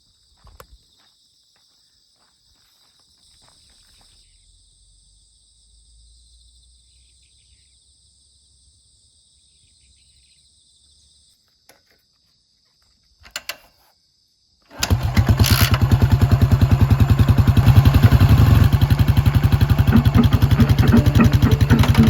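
Faint, steady high-pitched insect song, then about fifteen seconds in a Yamaha SR400's single-cylinder engine fires up suddenly and runs loudly with a rapid, even pulse through its exhaust.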